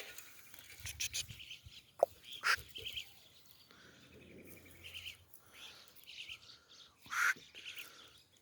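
Small birds chirping in short repeated notes, with a few brief sharp sounds, the loudest about two seconds in and again near the end.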